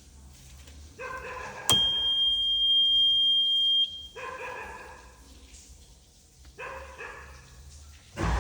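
A click, then a steady high-pitched electronic beep held for about two seconds, with three short pitched, dog-like yelps: one before the beep and two after it.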